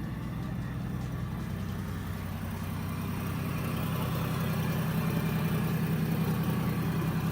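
A car engine idling with a steady low, pulsing note that grows gradually louder.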